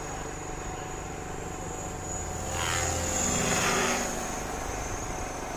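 Radio-controlled scale Huey helicopter flying, its rotor and motor running steadily with a thin high whine. The sound swells louder for about a second and a half near the middle.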